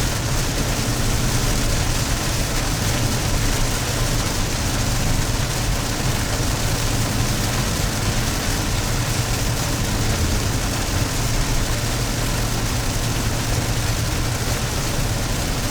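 Steady road noise inside a moving car driving in rain: low engine drone with tyre hiss on the wet road.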